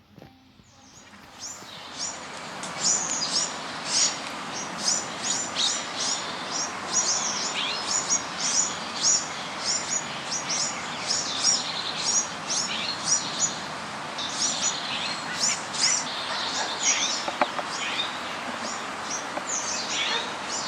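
Birds chirping: short high chirps repeated in quick succession, several a second, over a steady background hiss. The sound fades in over the first two seconds.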